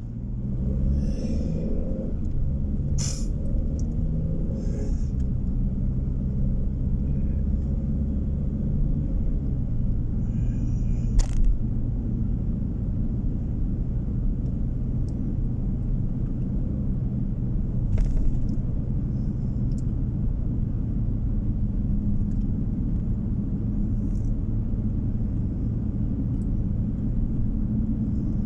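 Car driving, heard from inside the cabin: a steady low rumble of engine and road noise. The engine note shifts during the first ten seconds, then holds steady while cruising, with a few short knocks or clicks.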